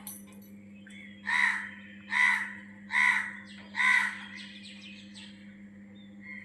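Birds calling: four loud, harsh calls about a second apart, then a quick run of short chirps.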